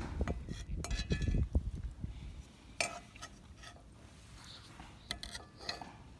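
Cookware and utensils being handled, with a low rumble of handling for the first couple of seconds, then a few sharp clinks and knocks.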